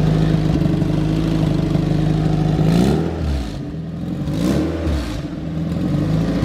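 Twin-turbo Honda J-series V6 in a Toyota MR2 idling through short open exhaust tips. It is blipped twice, about three seconds in and again a second and a half later, each rev rising and dropping back to idle. The engine has just been started and is warming up.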